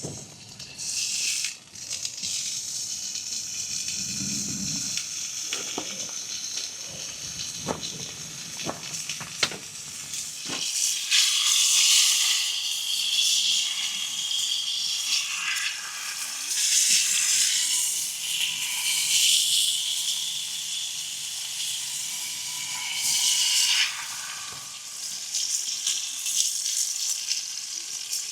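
Thick-cut steak sizzling in a hot pan over a wood fire, the sizzle swelling and easing in waves. Before the sizzle strengthens, about ten seconds in, there are a few sharp knocks and clicks over a lighter hiss.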